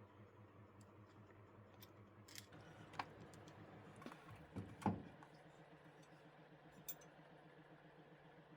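A few light, irregular clicks and knocks over a faint steady hum, the loudest a little before the halfway point.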